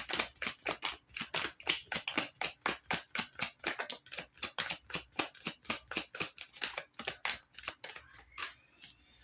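Tarot deck being shuffled by hand: a quick, even run of card slaps, about five a second, that stops shortly before the end.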